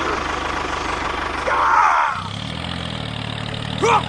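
A small motor running steadily with a fast, even pulse. Its note shifts about halfway through, and short high chirps come over it once in the middle and again near the end.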